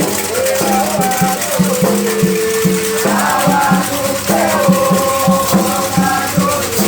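Candomblé ritual song for Xangô: voices singing over a steady, fast low beat, with a shaken rattle going throughout.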